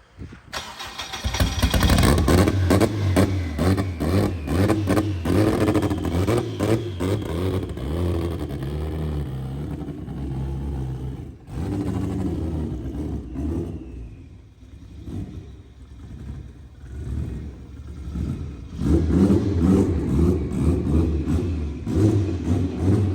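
Turbocharged Honda B-series four-cylinder engine in a Civic firing up about half a second in and running loudly under revs as the car is driven. It eases off for a few seconds in the middle and comes back up near the end.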